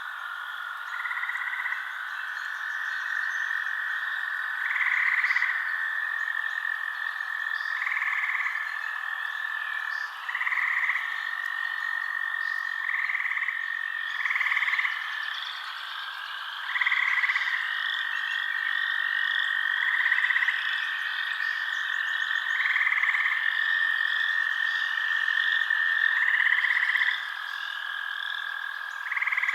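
Night chorus of frogs: a long unbroken high trill runs underneath, with shorter, louder calls repeating about every two to three seconds.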